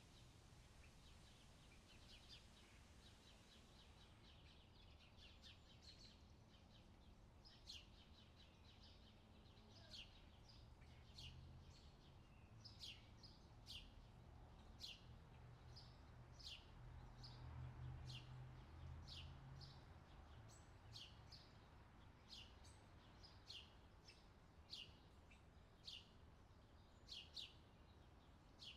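Faint outdoor summer ambience: a bird chirping over and over, short high falling chirps about one a second, over a low rumble that swells briefly past the middle.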